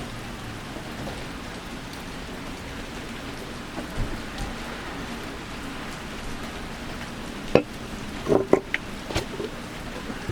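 Steady rain falling, an even hiss. A few sharp knocks and clicks come in about three-quarters of the way through, the first of them the loudest.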